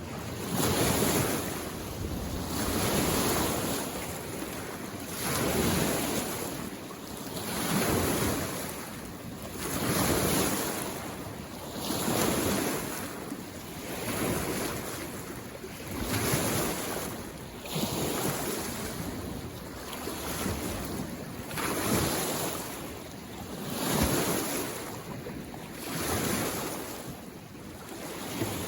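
Small waves on a mountain lake washing in against the shore, one every two seconds or so, each a swelling rush of water that fades before the next.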